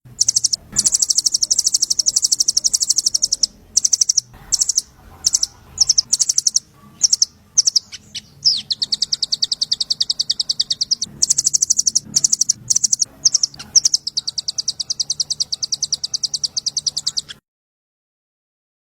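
A small songbird's fast, high-pitched trill of rapid chirps, given in repeated bursts with short breaks, over a faint low hum; it cuts off suddenly near the end.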